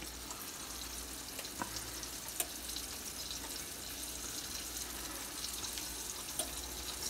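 Breaded chicken breast shallow-frying in hot oil in a skillet: a steady sizzle with scattered small pops and crackles.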